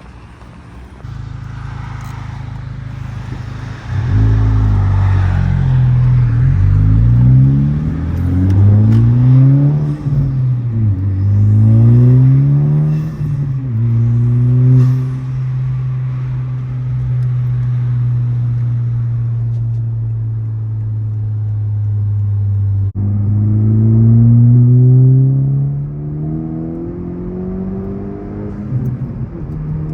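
Modified Honda Civic Type R FL5's turbocharged 2.0-litre four-cylinder engine and exhaust accelerating hard through the gears: the pitch climbs and drops sharply several times as it is upshifted, then holds steady while cruising, before another climb after a sharp click late on.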